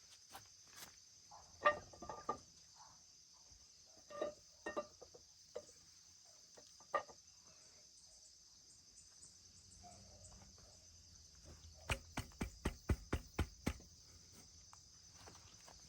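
Scattered metallic clinks and knocks from tools and engine parts being handled, with a quick run of about a dozen clicks a couple of seconds before the end, over a steady high-pitched background hum.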